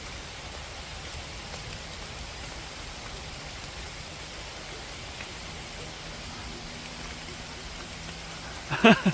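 Steady rain falling, an even hiss with scattered faint drop ticks. Near the end a person's voice cuts in briefly and is the loudest sound.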